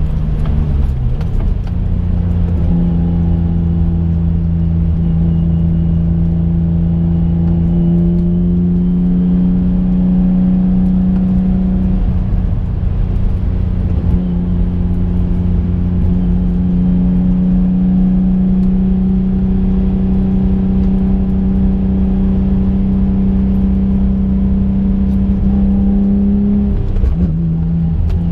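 The 3.5-litre V6 of a twin-turbocharged 2005 Infiniti G35 coupe drones steadily under way, heard from inside the cabin. Its pitch climbs slowly, drops sharply about a second in and again near the end, then rises once more.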